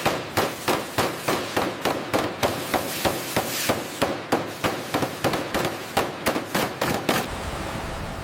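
Repeated hammer blows, about three a second in an uneven rhythm, stopping about seven seconds in.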